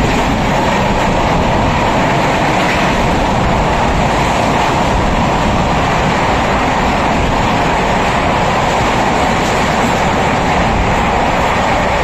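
Passenger train running at speed, heard from on board: steady, unbroken wheel-and-track noise.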